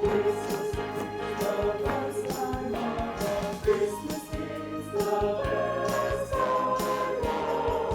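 High school choir singing a holiday song with instrumental accompaniment, held notes over a steady percussive beat.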